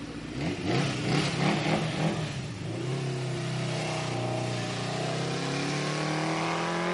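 Suzuki motorcycle's inline-four engine, uneven for the first couple of seconds, then pulling with a steady, slowly rising pitch from about three seconds in as it accelerates.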